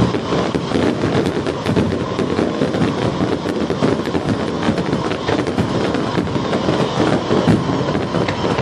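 Fireworks going off: a dense, continuous crackle of rapid sharp pops.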